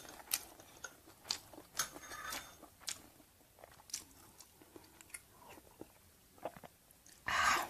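Close-miked chewing of stir-fried chicken organs: irregular crisp crunches and wet mouth clicks. Near the end comes a louder, half-second breathy rush.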